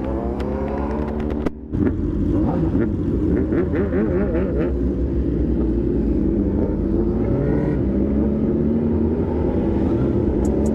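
Sport motorcycle engine running while being ridden, its pitch wavering with the throttle and slowly climbing, with a brief break about one and a half seconds in.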